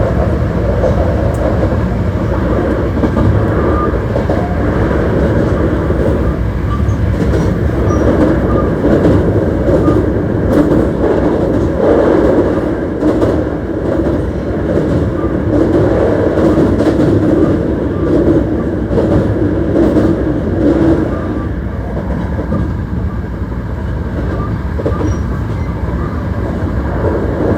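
Hankyu 1300 series electric train running between stations, heard from inside the car: a steady, loud rumble of the wheels on the rails and the car body.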